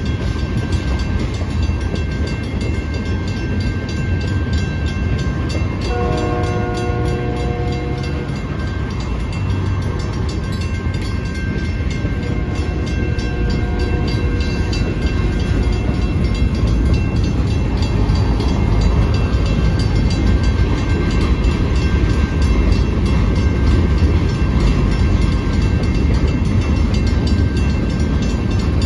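Loaded freight cars, tank cars and covered hoppers, rolling steadily through a grade crossing with a heavy rumble of wheels on rail, while the crossing's mechanical bell keeps ringing. A horn chord sounds for about two seconds, about six seconds in.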